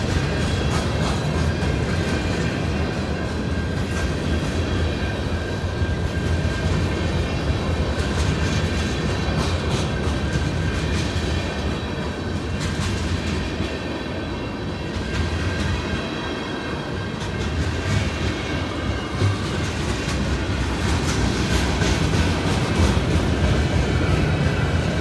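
Freight cars rolling past: a steady rumble of steel wheels on rail, with irregular clicks as the wheels cross rail joints and a faint steady high-pitched ring over it.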